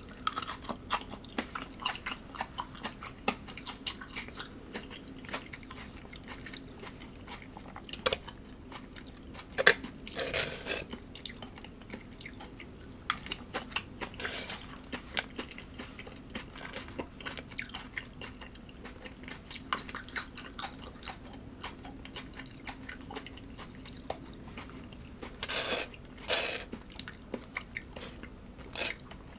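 A person chewing food close to the microphone: a steady run of small wet mouth clicks, with a few louder crunchy bites about ten seconds in and again near the end. A faint steady hum runs underneath.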